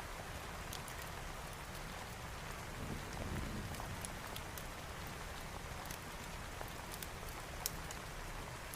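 Steady rain with a crackling fire, sharp pops scattered every second or so. There is a brief low rumble about three seconds in.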